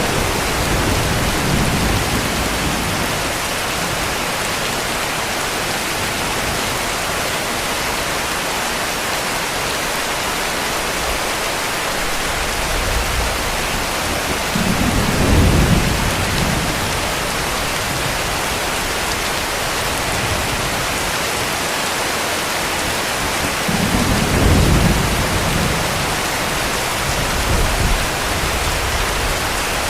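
Heavy rain falling steadily, with low rumbles of distant thunder swelling up twice, about halfway through and again some ten seconds later.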